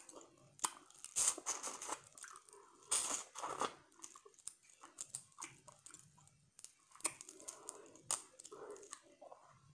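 Close-up eating sounds: chewing, with irregular crunchy clicks and crackles as a cooked shrimp's shell is peeled by hand. The loudest crackles come about a second in and again at about three seconds.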